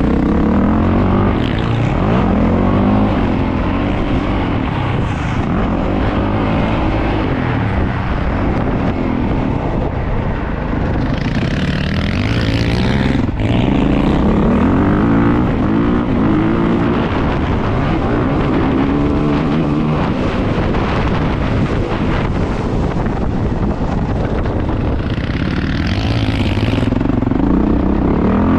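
450cc four-stroke dirt bike engine revving, its pitch rising and falling again and again.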